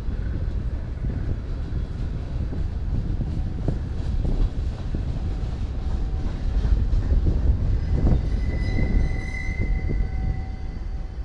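Freight cars of a CSX train rolling past, a steady low rumble with frequent wheel clicks over the rail joints. A high steel-wheel squeal rises over it about eight seconds in and lasts a couple of seconds.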